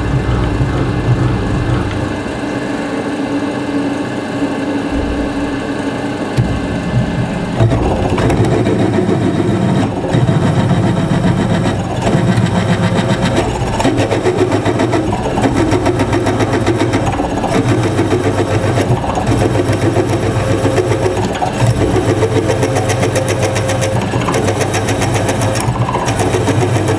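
A metalworking machine tool running steadily, its sound turning louder and rougher about eight seconds in.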